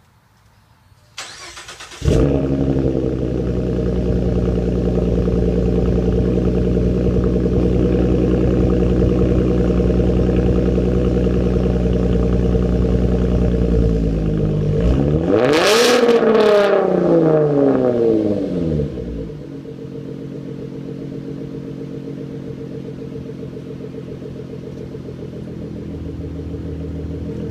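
2014 Ford Mustang 3.7-litre V6 with a Roush aftermarket exhaust, starting up. It cranks briefly, fires loudly with a deep tone and holds a steady idle. About halfway through it revs once, rising and falling, then settles back to a quieter idle.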